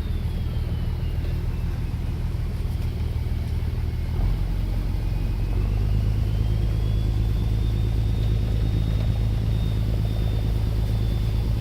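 River cruise boat's engine rumbling steadily as it moves off and turns, growing louder about four seconds in. A faint high whine falls and then rises in pitch over it.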